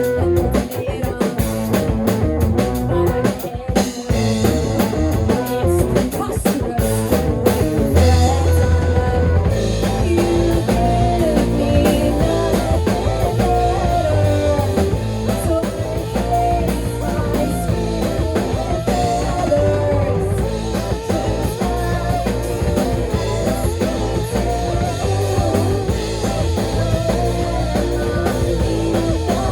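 A live rock band playing an instrumental stretch of a song: electric guitar over bass and drum kit.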